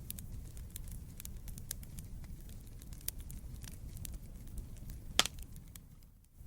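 Wood fire burning in a fireplace: a low steady rumble of flames under scattered sharp crackles and pops, with one louder pop about five seconds in. The sound briefly drops away just before the end.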